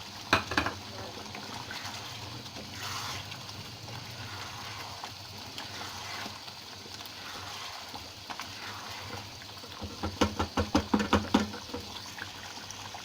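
Chicken curry simmering and sizzling in a cooking pot, a steady bubbling hiss. A utensil clinks against the pot just after the start and again in a quick run of clinks about ten seconds in.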